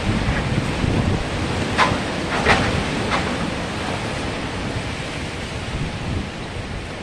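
Strong wind blowing and buffeting the microphone, with a few sharper gusts about two to three seconds in.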